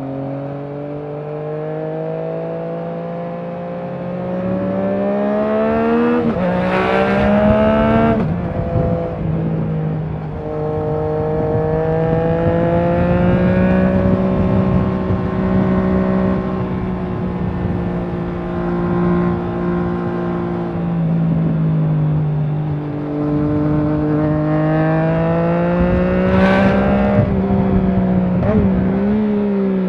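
Triumph Trident 660's inline three-cylinder engine through a Leo Vince aftermarket exhaust, riding: revs climb and drop at an upshift about seven seconds in, hold steady at cruise for a long stretch, climb again to a second upshift near the end, then fall away.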